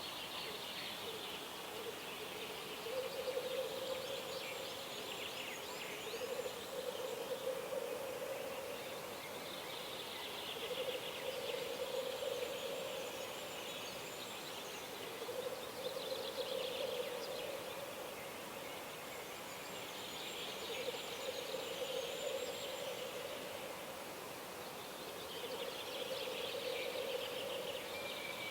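Birds singing: high trilled phrases of two to three seconds repeat every four to five seconds, with a lower pulsing sound recurring at the same pace, over a steady background hiss.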